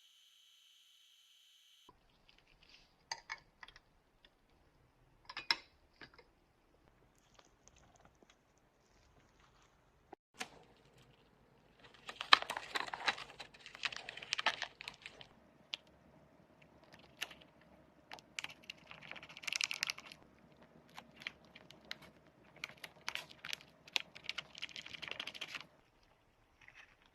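Irregular clicks, taps and scratchy scraping of small hard parts being handled and worked on, sparse at first and then in denser runs of rapid scraping and clatter through the second half.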